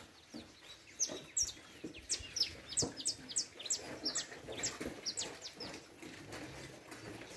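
Birds chirping: a string of short, high notes, each sliding sharply downward, two or three a second, thinning out in the last couple of seconds.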